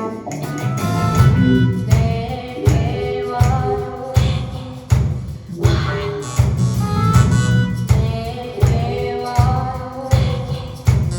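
Live band music with a steady beat from a musical's stage performance, with a strong pulse in the low end and pitched melody lines above.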